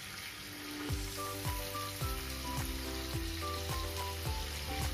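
Paneer tikka skewers sizzling in hot oil on a grill pan, under background music. The music comes in about a second in with a steady low beat, about two a second.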